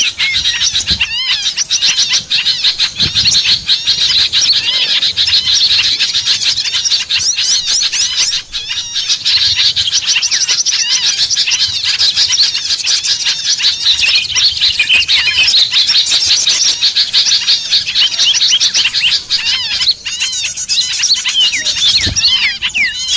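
Small songbirds chirping and twittering fast and densely, many calls overlapping without a break: a bird-luring call track meant to draw small birds in.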